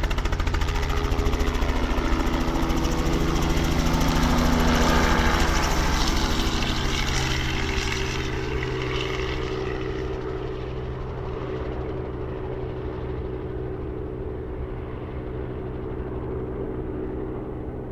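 Helicopter's turbine engines and rotor with a steady, rapid rotor chop, loudest about five seconds in, then growing duller and quieter as it flies away.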